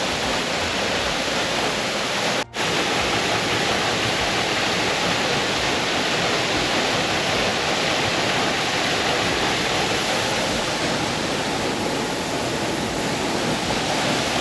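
Waterfall rushing steadily close by, an even roar of falling water with a momentary break about two and a half seconds in.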